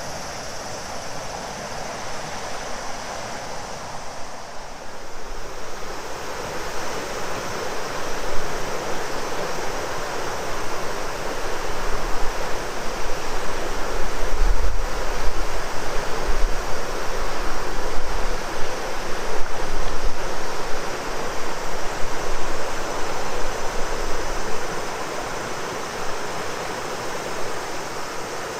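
Shimanto River flowing: a steady rushing of water that swells through the middle, with wind rumbling on the microphone at the same time.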